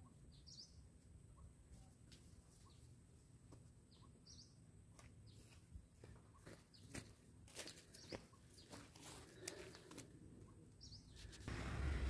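Faint outdoor bird chirps, short calls every few seconds, with scattered clicks and knocks in the middle. Near the end, low rumbling handling noise as the camera is picked up and moved.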